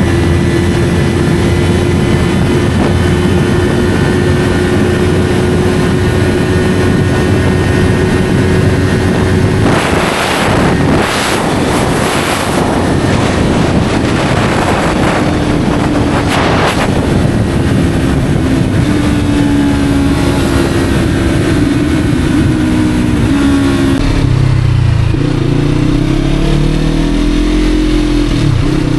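Yamaha R3's parallel-twin engine through an SC Project slip-on exhaust, riding at steady revs, then slowing with the engine note falling. It drops to low revs with short rises and falls near the end. Several noisy rushes come about a third of the way in.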